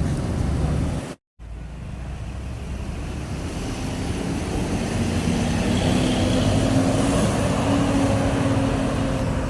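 Road traffic: a motor vehicle's engine running with a steady hum that grows gradually louder over the road noise. The sound cuts out completely for a moment about a second in.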